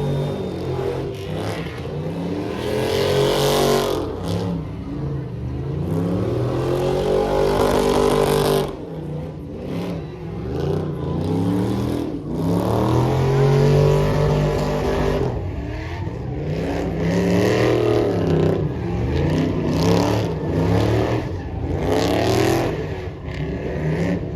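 Truck engine revved hard over and over, its pitch climbing and falling again every few seconds.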